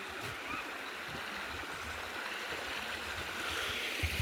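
A creek's steady rush of running water, growing louder toward the end, with a couple of low thumps near the end.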